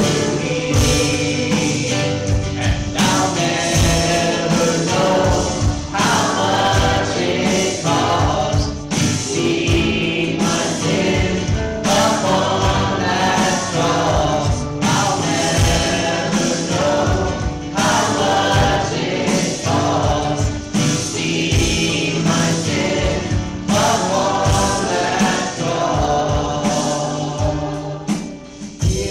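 Christian worship song sung by a group of voices with band accompaniment and a steady beat.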